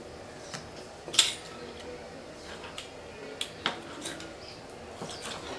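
A few sharp clinks and knocks of kitchen utensils, irregularly spaced, the loudest about a second in and a quick pair about three and a half seconds in.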